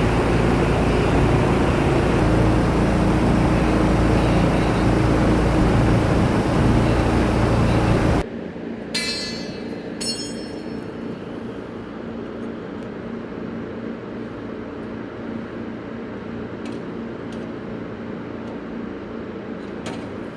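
Loud, steady machinery drone with a low hum that cuts off abruptly about eight seconds in. Two short bursts of rapid ticking follow, then a much quieter steady hum.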